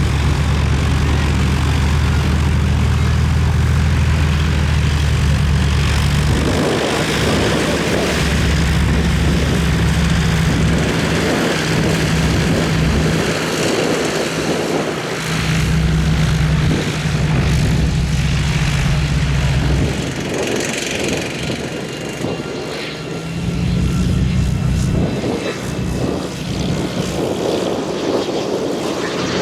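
Propeller airplane engine droning, its tone steady for the first few seconds and then broken up by gusty wind buffeting the microphone, with a slightly higher engine note returning near the end.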